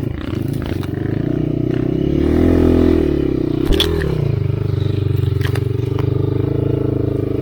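Enduro dirt bike engine running under way, its revs climbing about two seconds in, then dropping with a sharp knock just before four seconds, and running steadily after that.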